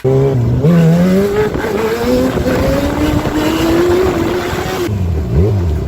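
Motorcycle engine revving hard, its pitch climbing steadily for several seconds, then falling and wavering near the end.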